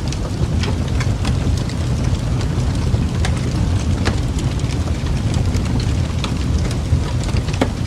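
Wood fire crackling in a fireplace, with many scattered sharp pops over a steady low rumble.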